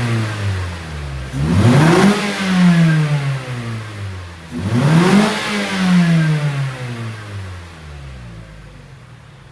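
Mazda 3's stock exhaust as the engine is revved in neutral: a rev dies away at the start, then two more blips about three seconds apart, each climbing quickly and sinking slowly back toward idle.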